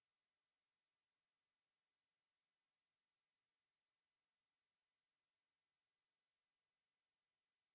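A steady, high-pitched pure sine tone at 8618 Hz, held at an even level without a break: a speaker and headphone test tone.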